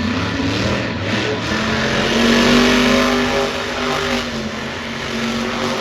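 Monster truck's supercharged alcohol-burning engine revving hard, its pitch climbing about a second and a half in, holding, then dipping and rising again.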